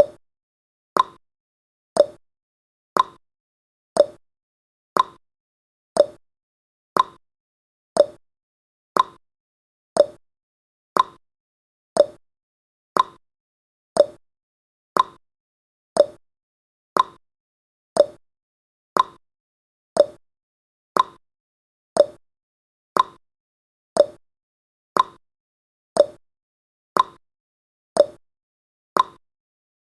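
Clock ticking sound effect of a countdown timer: one short tick every second, alternating between a higher tick and a lower tock.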